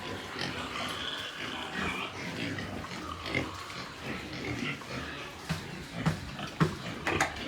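Pigs grunting and squealing, with irregular short calls and a few sharper knocks near the end.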